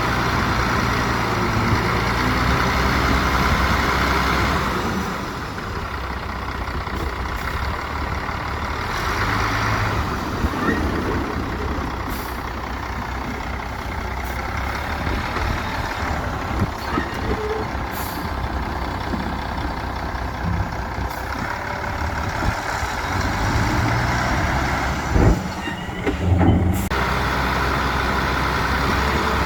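Heavy diesel earthmoving machinery at work: dump truck and bulldozer engines running steadily. The engine note drops about five seconds in, and a couple of sharp knocks come near the end.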